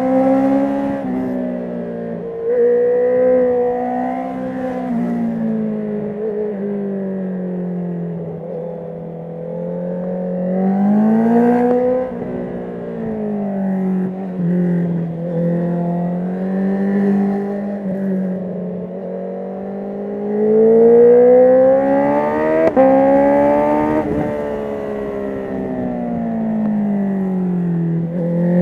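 Honda CB650R's inline-four on an Akrapovic full titanium exhaust with the dB killer out, revving up and down as the bike is ridden. The revs climb and fall repeatedly, with steep climbs ending in sudden drops about twelve seconds in and again near twenty-four seconds.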